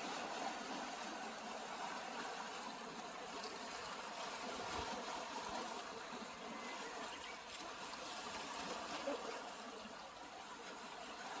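Gentle sea waves washing on a pebble shore: a soft, steady hiss with no distinct breaks.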